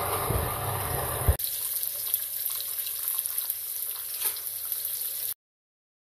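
Beef kababs sizzling as they fry in hot oil in a frying pan: a steady hiss with a brief thump about a second in. The sound cuts off abruptly to dead silence near the end.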